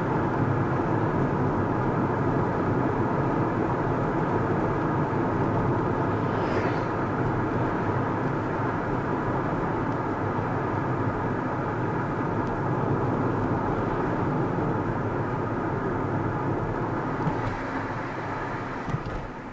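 Steady road and engine noise from a car being driven, with a brief higher whoosh about six and a half seconds in. It grows quieter near the end.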